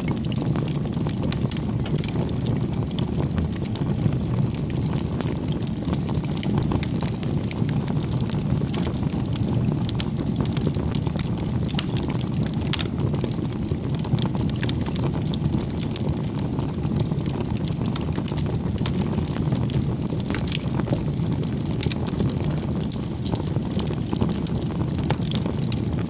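Wood fire crackling: a steady low rumble with frequent small snaps and pops.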